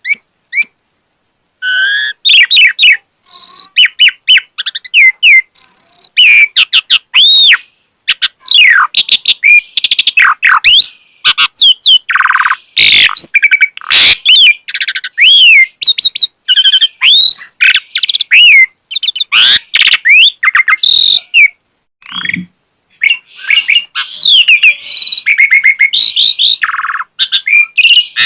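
Asian pied starling (jalak suren) singing in full voice, working through its repertoire: a fast, varied run of clear whistles, rising and falling slurs and short rasping notes. The song pauses for about a second just after it starts.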